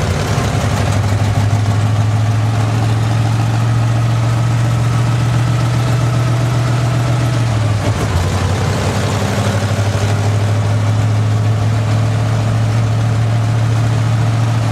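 Car engine running steadily with a strong low hum, dropping slightly in pitch about eight seconds in.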